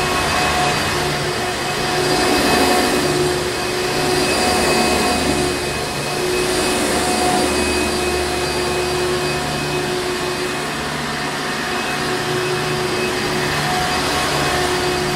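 Hoover Encore Supreme upright vacuum cleaner running steadily: a continuous airy rush with a steady whine riding over it.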